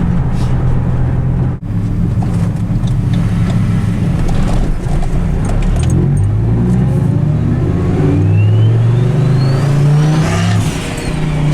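Turbocharged 8.3-litre V10 of a Dodge Ram SRT-10 pulling hard under acceleration, its pitch climbing and dropping back through gear changes. In the later seconds the turbo whistle rises steadily, then a short rush of air as the throttle lifts and the wastegate dumps, with the whistle falling away.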